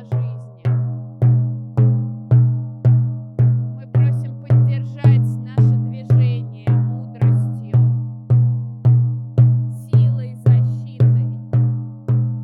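Frame drum (buben) beaten in a steady, even rhythm of about two strikes a second, each stroke a low ringing tone that fades before the next.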